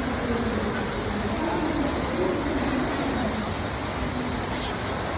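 A 15-metre indoor waterfall's water pouring steadily, a constant even rush, with faint voices of people under it.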